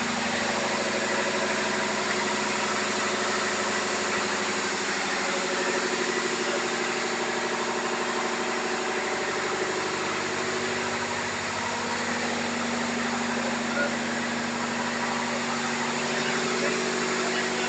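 Ship's diesel engines running steadily inside the engine room, a loud, unbroken hum with a fast, even pulse.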